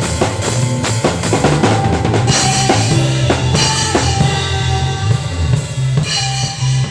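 Live band playing a worship song, the drum kit loudest, with kick and snare hits over a steady bass line and other instruments.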